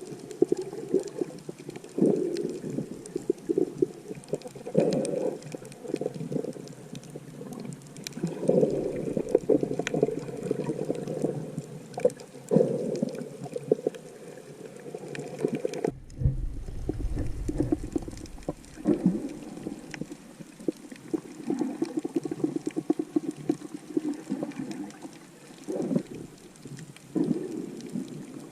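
Muffled underwater sound of snorkeling picked up by a camera in a waterproof housing: water sloshing and gurgling with constant crackling, swelling and fading in waves. Partway through it gives way for about two seconds to a deep low rumble, then the muffled sloshing resumes.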